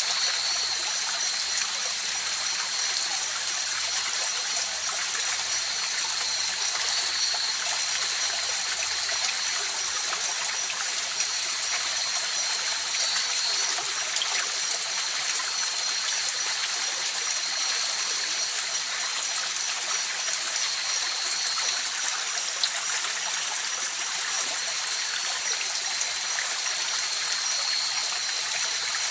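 River water flowing steadily, with a continuous high-pitched chorus of night insects over it.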